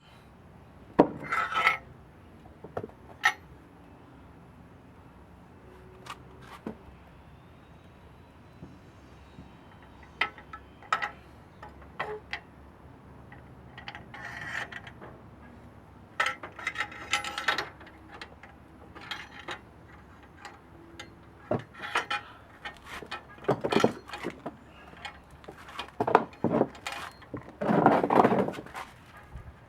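Irregular metallic clinks, knocks and short clatters of hand tools and metal parts being handled, coming more often toward the end.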